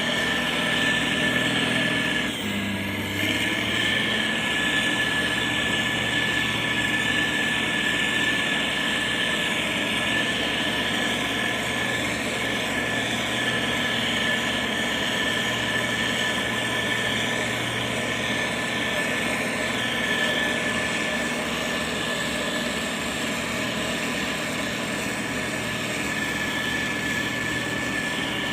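Motor grader's diesel engine running steadily, with a thin, steady high whine over the engine note. The engine's low note shifts slightly about two and a half seconds in.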